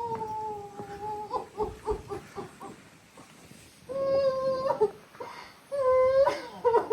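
A person wailing in grief: long, held, high cries, broken up by short sobbing gasps and a brief lull before the wailing starts again.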